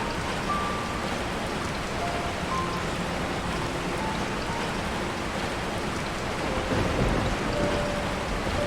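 Steady rain falling on a tarp shelter, with a low rumble of thunder about seven seconds in.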